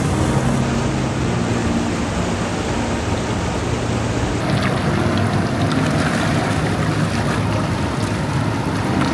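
Steady engine rumble under a rushing noise of wind or water.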